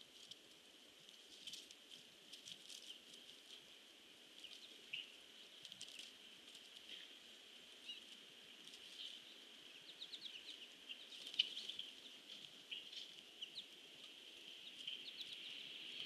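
Faint, scattered short chip notes from birds, including a quick run of several near the middle and one sharper, louder chip soon after, over a steady faint high-pitched hum.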